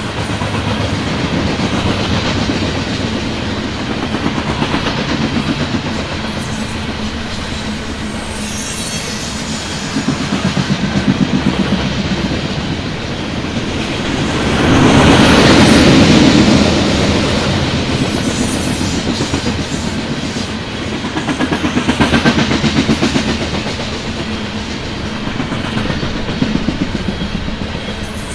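Loaded coal train rolling past, its wheels clattering over rail joints in a fast, steady rhythm, swelling and easing in loudness and loudest about halfway through.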